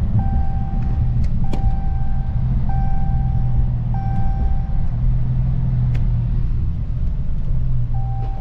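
Cabin sound of a Dodge Challenger's 5.7 Hemi V8 under way: steady engine and road rumble. Over it a high electronic dashboard chime beeps in repeated tones about a second long, the seatbelt reminder for an unbuckled driver.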